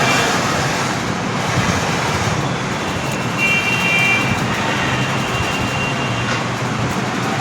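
Steady road-traffic noise from passing vehicles, with a faint high tone coming and going midway.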